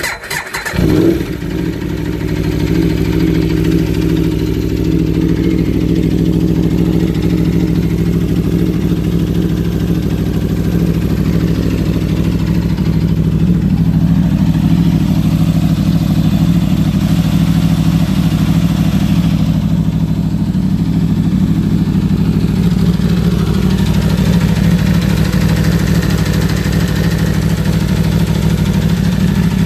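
2015 Aprilia RSV4's V4 engine starting, flaring briefly about a second in, then settling into a steady warm idle. Its mechanical valve-train noise is, in the owner's view, the natural sound of this V4 and not a fault.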